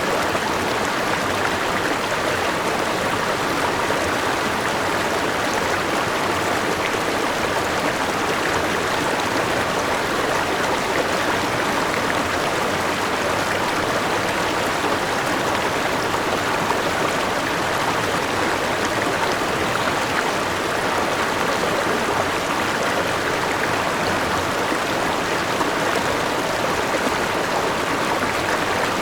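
River water rushing and splashing over a small waterfall, a steady, even rush with no let-up.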